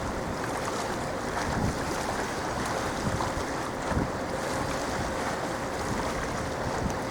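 Steady rushing of wind on the microphone and choppy harbour water, with a faint steady hum underneath.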